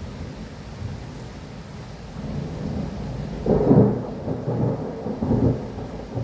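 Thunder rolling over steady rain, swelling to its loudest about three and a half seconds in and rumbling on in waves for a couple of seconds.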